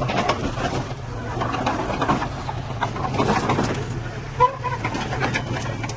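Heavy construction machinery running: a steady diesel engine with irregular clanks and knocks, and one short horn toot about four and a half seconds in.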